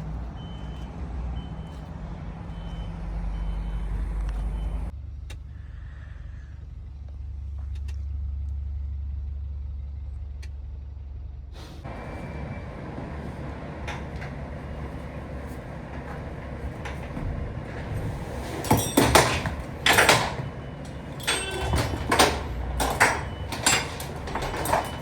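Truck engine running with a low steady rumble and a faint high beep repeating about twice a second. Later, a series of sharp knocks and clatter, the loudest sounds here.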